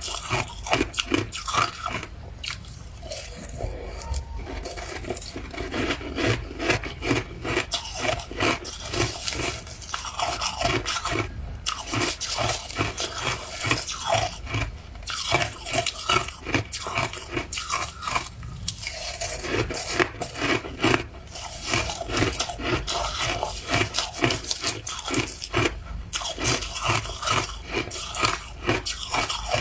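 Ice being bitten and chewed close to the microphone: rapid, irregular crunching in bursts, with a few short pauses.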